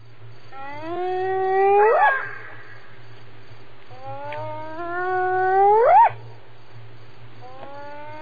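Spotted hyena whooping: two long calls about four seconds apart, each starting low and sweeping steeply upward at its end. A third whoop begins near the end.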